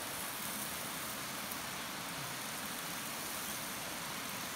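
Diced sweet potato sizzling in hot oil in a preheated cast-iron camp oven: a steady frying hiss with a few small pops.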